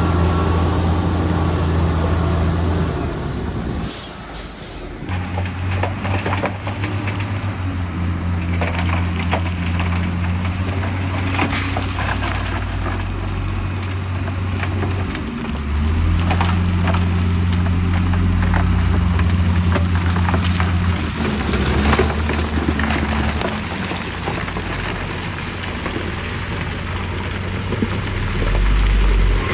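Heavy diesel earthmoving machinery running, its engine note shifting up and down in steps, with scattered clanks and a short air hiss about four seconds in.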